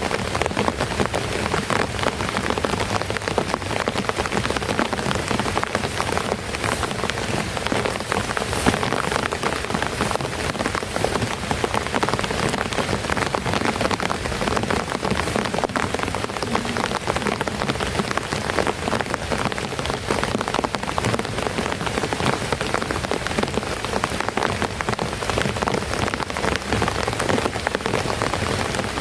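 Heavy rain falling steadily: a dense, unbroken patter of drops striking a surface.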